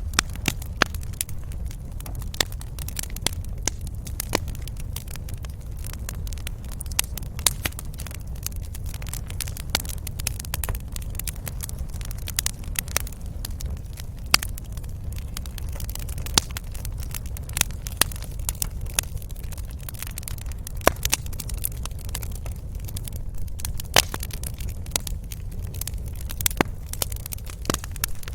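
Wood fire burning in a fireplace, with irregular sharp crackles and pops over a steady low rumble.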